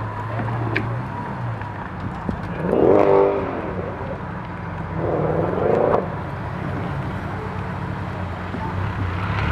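Car engine idling, blipped twice: a short rev about three seconds in and another around five to six seconds in.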